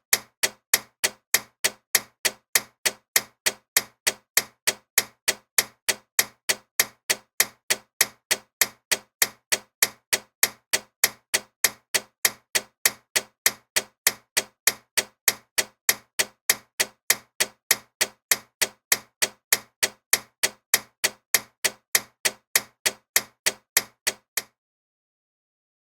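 Loud ticking clock: sharp, evenly spaced ticks about three every two seconds, which stop suddenly near the end.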